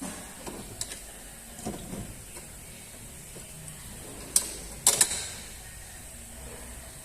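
Sharp clicks and knocks from tools and parts being handled while a new front-suspension ball joint is fitted. The loudest come as one click about four seconds in and a quick double click about a second later.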